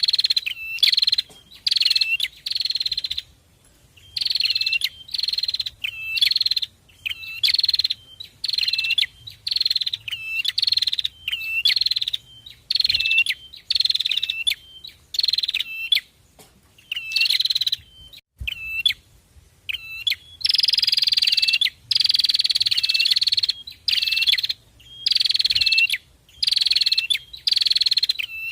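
A songbird singing a high, repeated short phrase about once a second, with brief pauses and now and then a longer held stretch.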